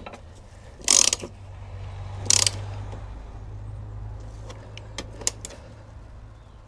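Socket ratchet working on the strut brace bolts: two short bursts of clicking near the start, then a few light metal clicks, over a steady low hum.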